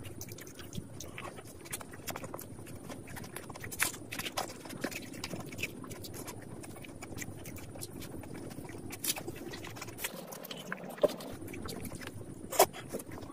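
Close-miked chewing of a fried samosa: irregular crunches and wet mouth clicks, with a few sharper crunches scattered through.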